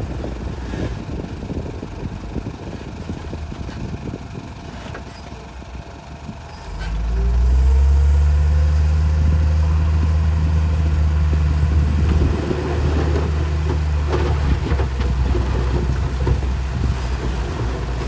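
Truck engine running at a low rumble, then revving up about seven seconds in and holding a steady high speed with a loud, even drone.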